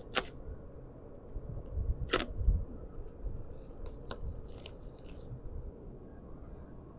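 Handling noise from the air conditioner's dual run capacitors being held and compared: three sharp clicks about two seconds apart, with light rustling in between.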